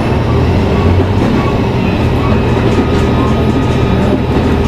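Car-driving sound effect: a steady low engine and road rumble.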